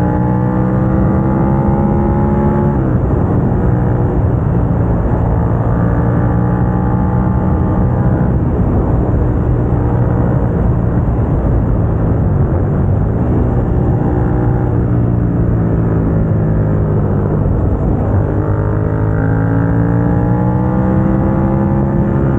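Suzuki SV650's 645 cc V-twin through a Dominator GP aftermarket exhaust, heard from on board while riding. The engine pitch climbs with a gear change about three seconds in and climbs again, falls away in the middle as the rider eases off, then pulls up again near the end. Some wind noise runs underneath.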